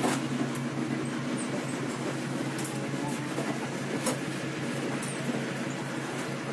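Indonesian diesel passenger train at a station: a steady low diesel hum with a few sharp clicks and clanks from the rails and carriages.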